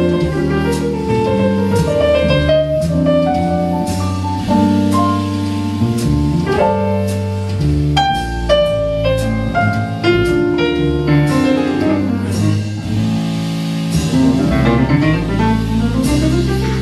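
Jazz trio playing an instrumental break: keyboard playing quick melodic runs over bass and a drum kit, with no singing.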